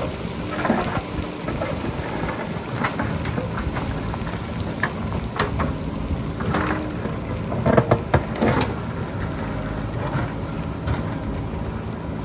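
Diesel engine of a JCB backhoe loader running steadily under load, with scattered sharp clatter and knocks of rock and stone as the bucket cuts the rocky hillside, busiest a little after halfway. Wind noise on the microphone underneath.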